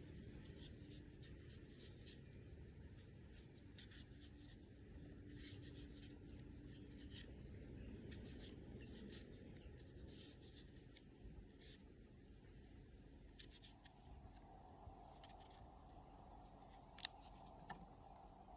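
Faint, irregular scraping and clicking from handling and cutting or biting into apple, with two sharper clicks near the end. A faint steady hum comes in about two-thirds of the way through.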